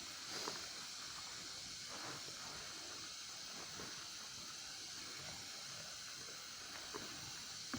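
Quiet outdoor background: a steady faint hiss with a few light knocks, one shortly after the start and two near the end.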